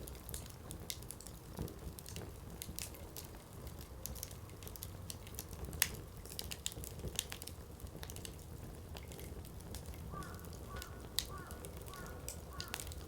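Firewood burning in a Coleman Fire Disc fire pit, crackling with irregular sharp pops over a low steady hiss of the flames. The loudest pops come about six seconds in and again about eleven seconds in.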